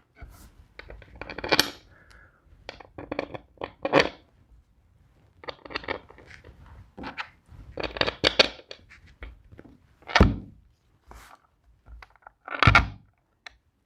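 Parts and tools being handled on a workbench: an irregular run of knocks, scrapes and clatter, with two heavier thuds near the end.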